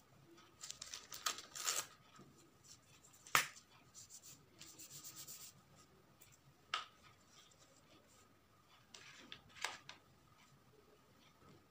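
Faint scratchy strokes of drawing on paper, with a few sharp taps; the loudest tap comes about three seconds in.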